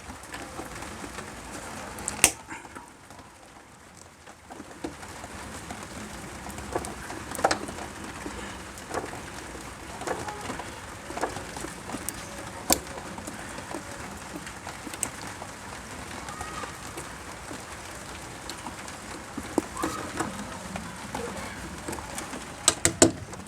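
Scattered sharp clicks and taps, typical of hand work on a three-phase main switch and its wiring, over a steady background hiss, with a few short bird chirps.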